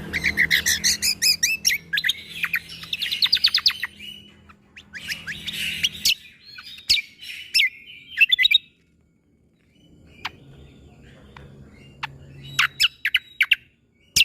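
Cucak kombo (kecial kombo) singing in fast runs of sharp, clipped notes, the 'shot' (tembakan) style of song. The runs are dense for the first few seconds, then the song breaks off briefly and comes back as scattered notes near the end.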